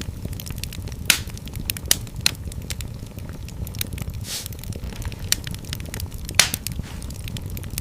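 Fire in a fireplace crackling, with a steady low rumble of the flames and sharp, irregular pops, about half a dozen over a few seconds.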